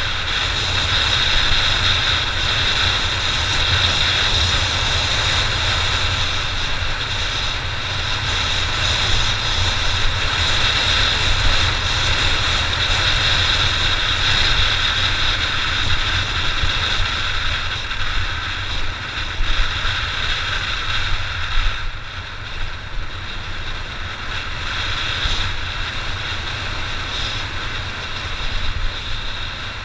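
Honda XR600's single-cylinder four-stroke engine running steadily while the motorcycle is ridden, getting a little quieter about two-thirds of the way through.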